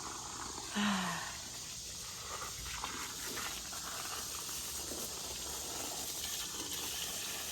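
Steady outdoor background hiss, with a short voiced murmur about a second in.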